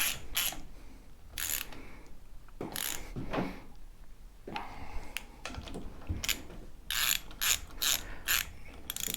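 Socket ratchet wrench clicking in short repeated strokes as the motorcycle's fork clamp bolts are tightened, with a pause in the middle before another run of quick strokes.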